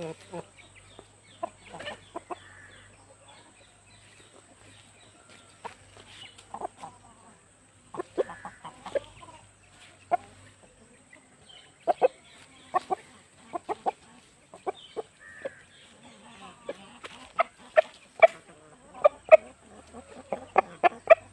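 Chickens clucking: short, separate clucks, scattered at first and coming thicker and louder in the second half.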